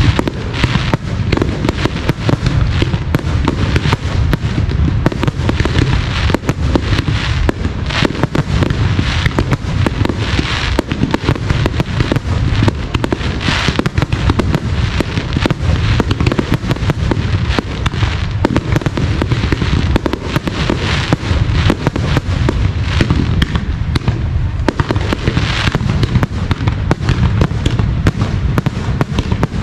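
Professional aerial fireworks display: shells launching and bursting in a rapid, continuous barrage of bangs.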